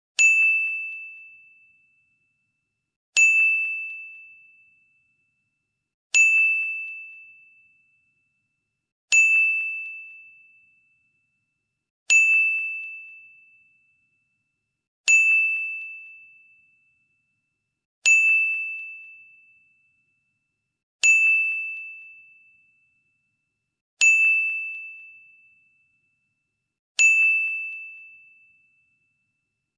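A ding sound effect played ten times, once every three seconds. Each ding is a single high ringing tone that starts sharply and dies away over about a second and a half.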